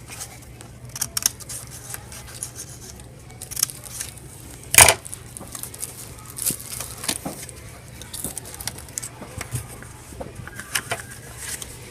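Sheet of paper being folded and creased by hand: scattered rustles and small crinkles, with one sharp knock about five seconds in.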